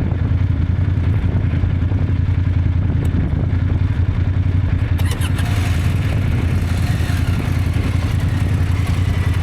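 KTM 890 Adventure's parallel-twin engine running steadily under way, with a rush of noise growing in the upper range about halfway through.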